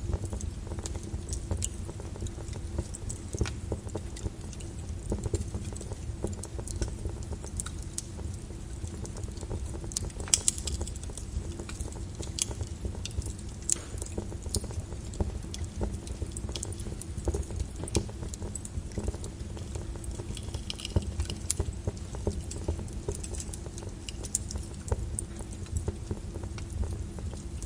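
Lava flow crackling: many irregular sharp clicks and pops over a steady low rumble.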